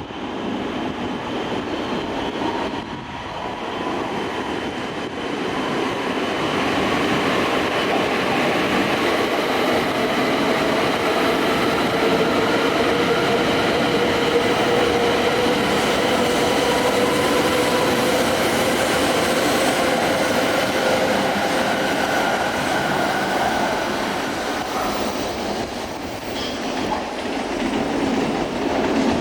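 Shinkansen train moving through the station, a steady rumble of wheels on rail with the electric traction motors' whine on several steady pitches. It swells about six seconds in, dips near the end, then rises again.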